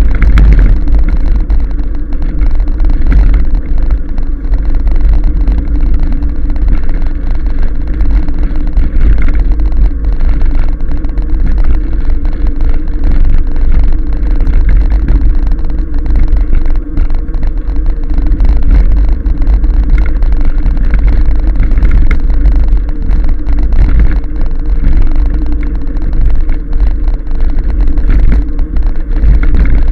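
Steady rumble of wind buffeting a microphone carried on a moving e-bike, with tyre and road noise underneath.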